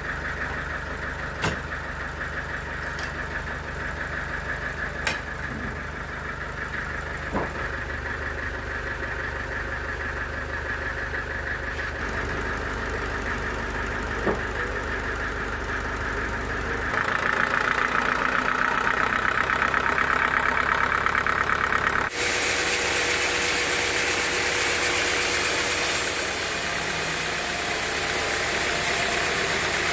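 Band sawmill machinery running steadily, with a few sharp knocks in the first half. The sound changes abruptly twice past the middle, getting louder and brighter.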